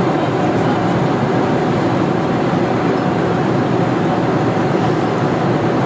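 Steady in-flight cabin noise of a Boeing 747-400: a constant rush of engine and airflow noise with a faint steady hum.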